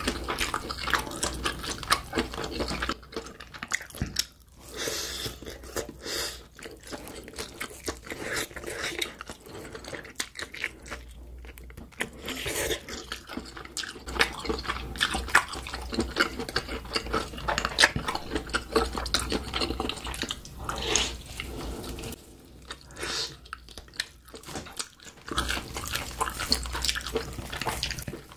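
Close-miked wet chewing of grilled octopus: a dense run of small wet clicks and smacks, broken by a few brief pauses.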